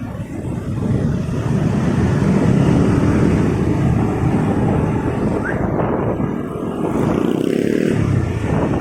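Motorcycle running on the move through road traffic: a loud, steady rumble of engine and traffic noise.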